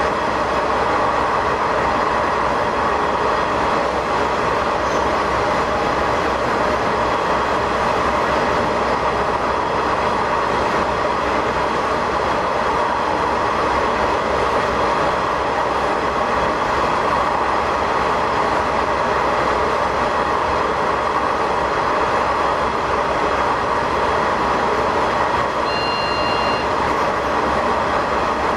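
Diesel railcar running steadily through a tunnel: a continuous rumble of engine and wheels on rail, echoing off the tunnel walls, heard from the cab. A brief high-pitched tone sounds about three seconds before the end.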